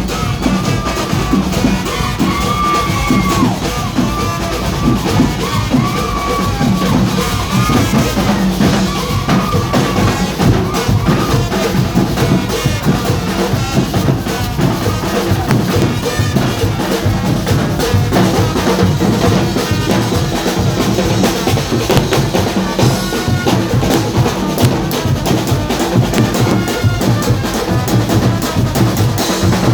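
Carnival band music with dense, steady drumming and a heavy bass drum, and a wavering melody line over the drums in roughly the first ten seconds.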